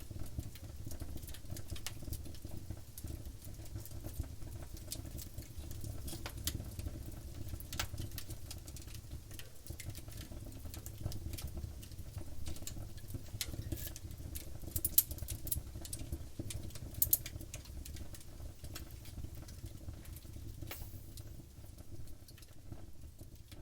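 Wood campfire crackling: a dense run of small snaps and pops over the low, steady rumble of the flames, with two louder pops about fifteen and seventeen seconds in.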